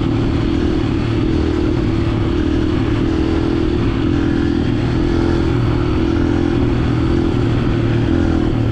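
125 cc four-stroke dirt bike engine running loud and steady while being ridden, held at an even throttle with little rise or fall in pitch.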